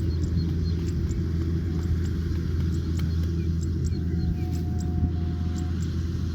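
Kubota combine harvester running steadily, a continuous low engine drone.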